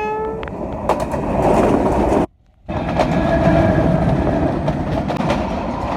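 A train horn ends just as the sound begins. A train then runs past with a loud, steady noise of wheels and cars, with clicks over the rail joints. The sound cuts out briefly about two seconds in.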